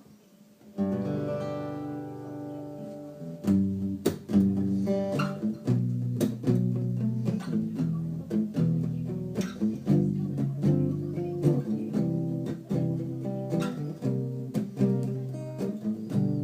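Acoustic guitar playing a song's intro: a single chord struck about a second in and left to ring, then steady rhythmic strumming from about three and a half seconds in.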